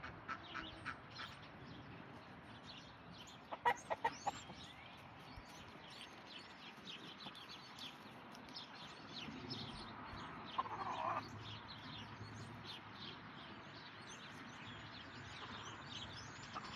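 Chickens clucking now and then, loudest in a short run of clucks about four seconds in, over steady high chirping of small birds.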